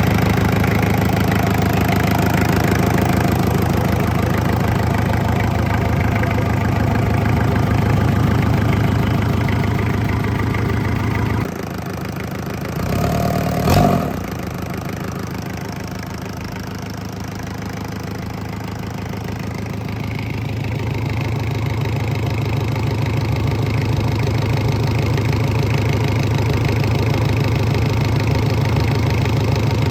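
Isuzu C240 four-cylinder diesel running steadily on its first bench run after being started. About eleven seconds in the sound drops away and there is a brief louder sound with a sharp click, then the engine carries on running and slowly grows louder again.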